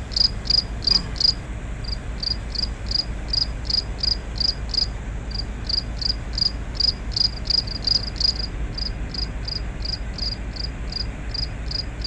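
Cricket chirping in a steady series of short high-pitched pulses, about three a second, with brief breaks every few seconds, over a steady low rumble.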